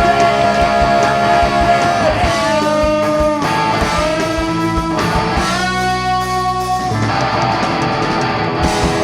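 Live rock band playing an instrumental passage between vocal lines: electric guitar with bass and drums.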